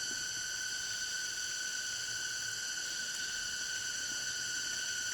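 A steady, high, even insect drone held at several pitches without a break.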